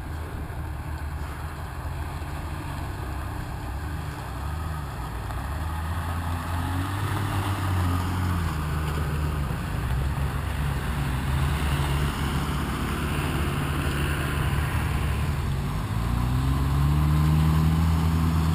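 Off-road 4x4 engines labouring up a dirt track, getting steadily louder as the convoy approaches. Near the end one engine's pitch dips and then rises into a steady, louder pull as a Land Rover Discovery climbs close by.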